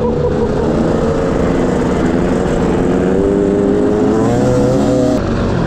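Dirt bike engine running at fairly steady revs under way, its pitch wandering up a little in the middle and easing slightly near the end.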